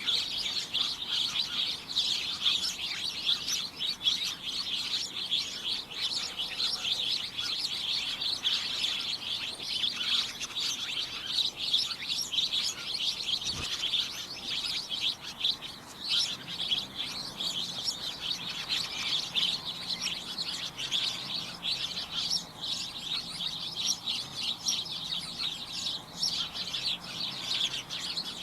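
A flock of small birds chirping and tweeting all at once in a dense, continuous chatter of short high notes.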